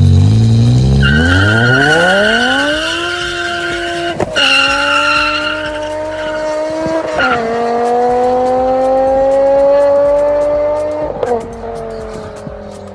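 Car engine and exhaust accelerating hard through the gears: the revs climb steeply for the first few seconds, then it upshifts three times, the pitch dropping at each shift and slowly climbing again. A high squeal runs alongside through the first half.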